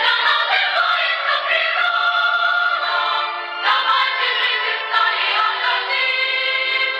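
A song playing: several voices singing together as a choir over instrumental accompaniment, with a thin sound that has no bass.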